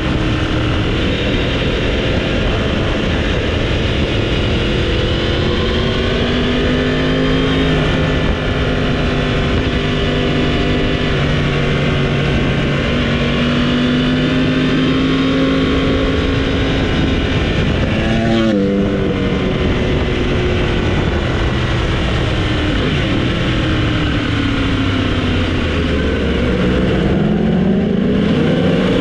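Motorcycle engine heard onboard at track speed, revving up and easing off through the gears under a steady rush of wind. About two-thirds of the way through the pitch drops steeply, as in a quick run of downshifts under braking.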